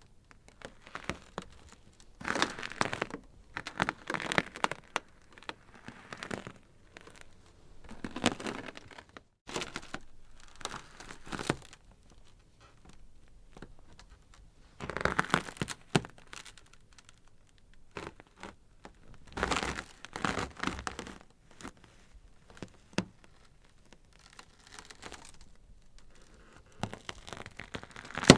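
Ice crackling: irregular clusters of sharp cracks and snaps every few seconds, with quiet gaps between them.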